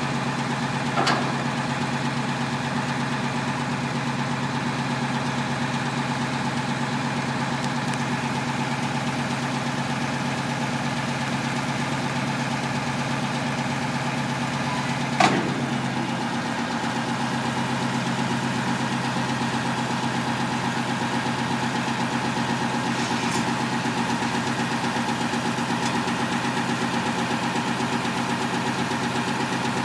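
A truck engine idling steadily at an even pitch. Two sharp clicks or knocks cut through it, one about a second in and a louder one about halfway through.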